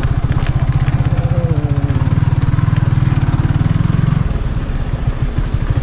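A vehicle engine running on the road with a fast, even throb, easing off about four seconds in.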